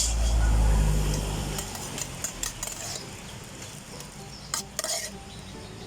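A low rumble for about the first second and a half, then scattered clicks and clatters of drink-making utensils and cups, the sharpest near the middle and again near the end.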